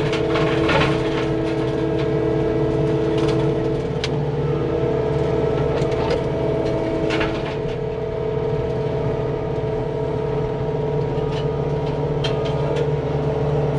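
CAT 259D compact track loader's diesel engine running steadily under load, driving an MTL XC7T hydraulic mulching brush cutter through brush, with a few sharp cracks along the way.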